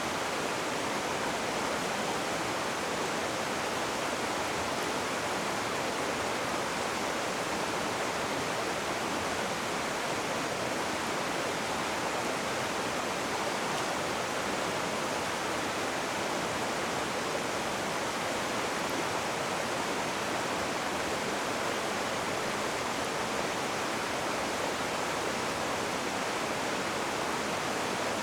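Rushing water: a river or waterfall running in a steady, even rush with no breaks.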